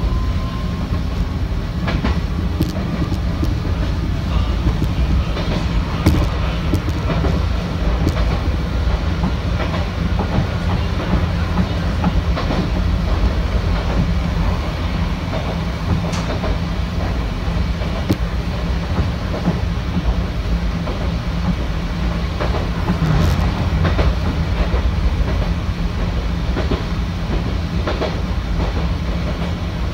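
Electric commuter train running, heard from inside the front cab: a steady rumble of wheels on rail with scattered clicks as the wheels pass over rail joints. A faint whine rises slightly in pitch in the first couple of seconds.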